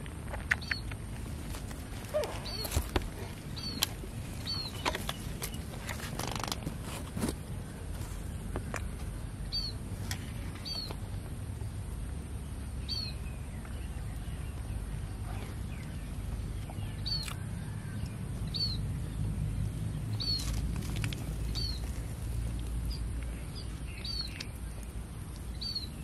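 A bird repeating one short, high chirp every second or two over a steady low background rumble. A few sharp clicks and rustles come in the first several seconds.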